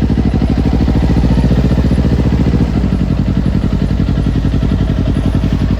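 Kawasaki Ninja's parallel-twin motorcycle engine running under way, with a steady firing pulse. The engine note shifts about halfway through.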